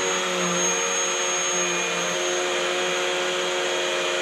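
Vacuum cleaner running steadily: a constant motor whine with a rushing hiss of air, its pitch wavering slightly as it is pushed around.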